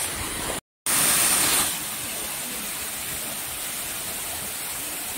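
Waterfall rushing: a steady hiss of falling water, broken by a brief dropout under a second in, louder for the next second or so and then steady and a little quieter.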